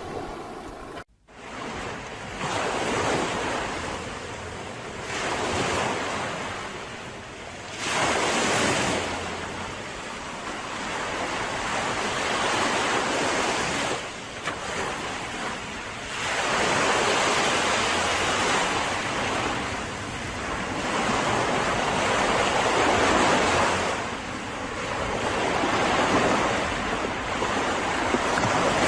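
Mediterranean waves washing onto a beach, swelling and falling back every few seconds. The sound cuts out for a moment about a second in, then resumes.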